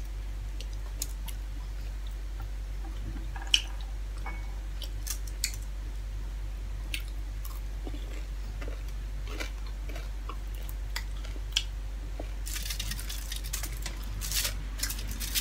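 Close-miked chewing and wet mouth sounds of a person eating with her hands, with scattered small clicks and a denser crackle near the end, over a steady low hum.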